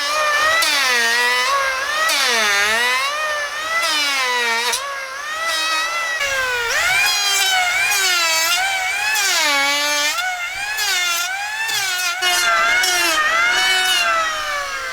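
An electric power tool's motor whining as it works wood; its pitch drops each time it comes under load and climbs back as it frees, over and over.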